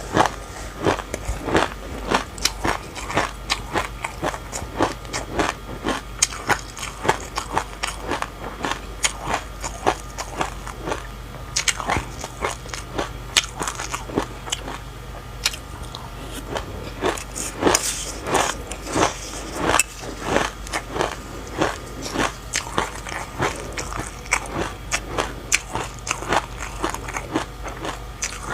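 Passion fruit being bitten and chewed up close, a steady run of crunchy, crackling clicks several times a second as the pulp and seeds are crushed.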